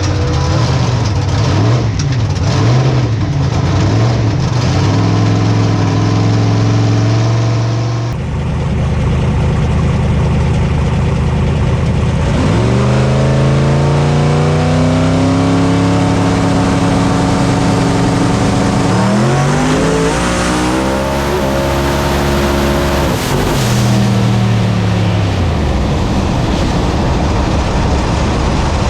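Drag race car's engine heard from a camera inside the car: revving unevenly, then the pitch climbs sharply about twelve seconds in as the car accelerates hard, climbs again about nineteen seconds in, and falls away about twenty-four seconds in as the throttle comes off.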